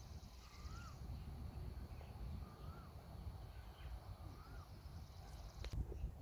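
A bird calling over and over, a short rising-and-falling whistled note about every two seconds, over a low rumble of wind on the microphone. A single sharp click comes near the end.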